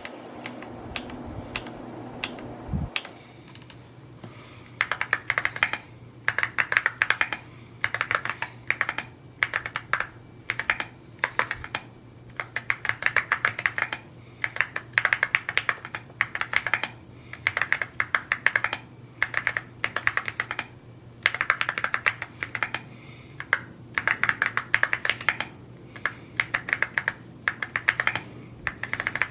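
Typing on an Evo80 mechanical keyboard: rapid runs of keystrokes in bursts of a second or two, with brief pauses between them, starting about four seconds in after a quieter stretch.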